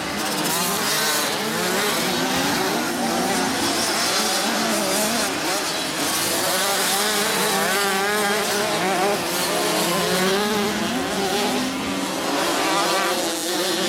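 Several 50 cc automatic two-stroke motocross minibikes racing, their overlapping engine notes continually rising and falling as they rev up and back off.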